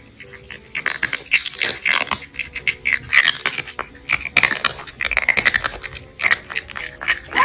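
Crunchy chewing and biting sounds: a quick, irregular run of crackles and clicks.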